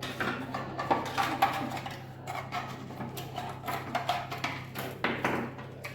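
Irregular clicks, knocks and clatter of small appliance parts being handled and set down, over a low steady hum.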